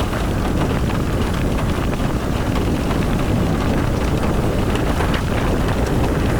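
Car driving in the rain: a steady rumble of road and wind noise, with faint scattered ticks.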